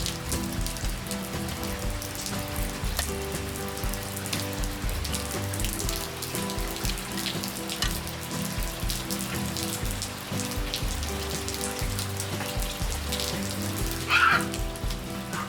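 Steady rain with fine patter of drops, under soft background music of sustained notes. A short, sharper sound stands out near the end.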